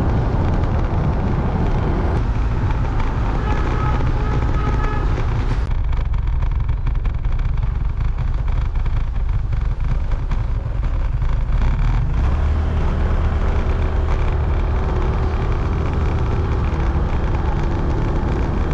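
Motorcycle riding on the road: steady wind rush over the microphone with the engine running underneath. The sound changes abruptly a couple of times in the first six seconds, and a steadier low engine hum comes in about two-thirds of the way through.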